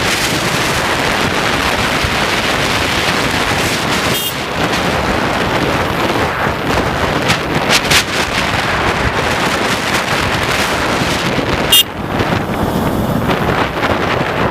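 Heavy wind rushing over the microphone of a motorcycle at riding speed, a steady loud noise. There are two short sharp clicks, about four seconds in and near twelve seconds.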